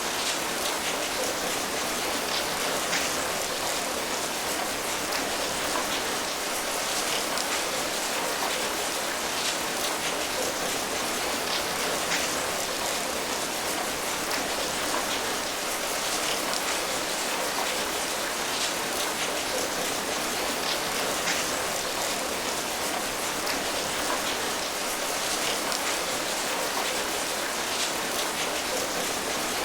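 Steady rain falling, an even hiss flecked with faint drop ticks.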